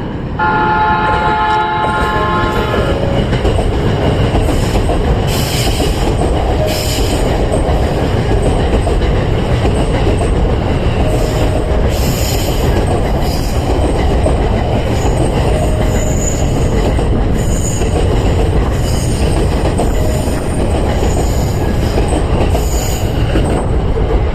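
E531 series electric train passing through a station without stopping. It opens with a horn held for about two and a half seconds, followed by a loud, steady rumble of wheels on rail with repeated clacks over the rail joints.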